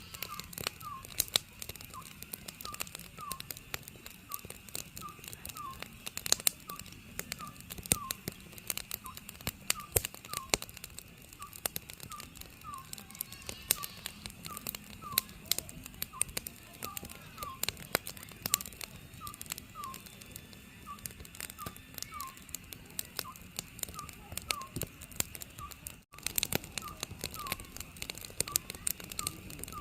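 Oriental scops owl calling, a short falling whistled note repeated steadily over and over, over a wood fire crackling with sharp pops.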